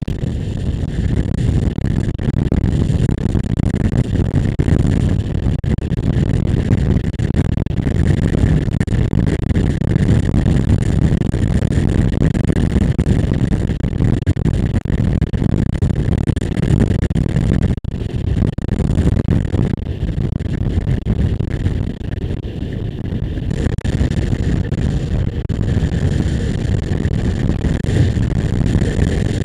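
Motorcycle riding along at a steady speed: engine and wind rumble on the on-board microphone.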